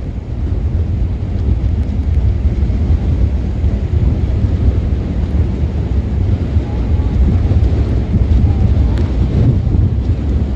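Strong tropical-storm wind buffeting the microphone: a steady, loud low rumble with no pause.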